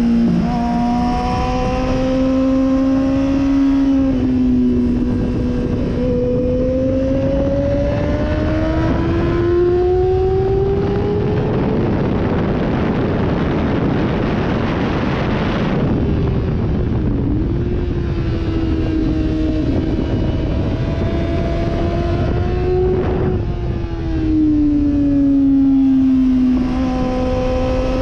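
Sportbike engine heard from on board while riding on track, its pitch rising and falling with throttle and gear changes. A loud rushing noise swamps the engine tone for a few seconds in the middle.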